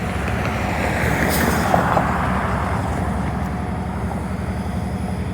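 Union Pacific diesel locomotives idling steadily, with a passing road vehicle swelling up and fading about two seconds in.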